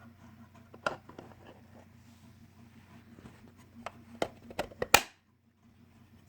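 Handling clicks and knocks from a 3D-printed plastic card box: one sharp click about a second in, then a quick run of clicks between about four and five seconds, the last the loudest.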